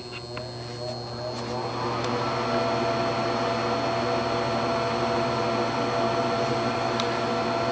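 Gas furnace's draft inducer motor starting up: its whine rises in pitch over about two seconds, then it runs steadily. There is a short click near the end.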